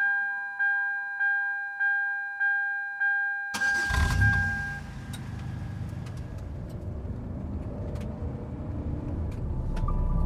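A two-tone electronic chime pings six times, about every half second. About three and a half seconds in, a low rumbling sound starts abruptly and runs steadily, with scattered light clicks over it.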